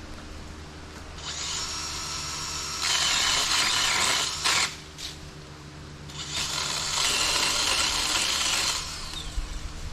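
Power saw cutting in two bursts of about three seconds each, over a steady low hum.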